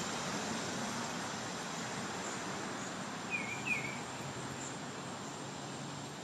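Two short bird chirps in quick succession about halfway through, over a steady background hiss.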